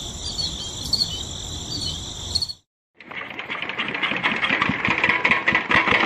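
High steady insect-like chirping, then a brief cut to silence. After that a small motor starts running with a fast rattling rhythm and grows louder.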